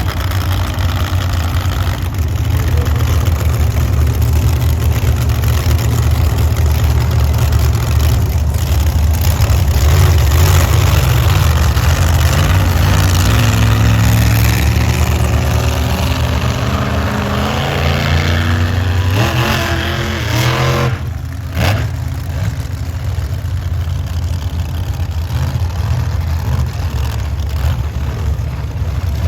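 Monster truck engines running loud with a deep rumble and revving. About two-thirds of the way in, the revs rise, then briefly drop off.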